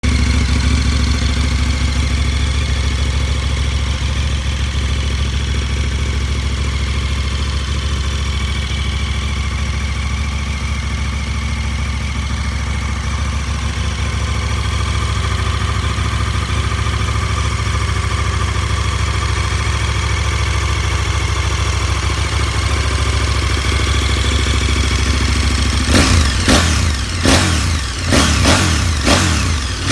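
KTM 1290 Super Adventure S V-twin engine with an Akrapovic end can, idling steadily. Near the end it is revved in a run of quick throttle blips.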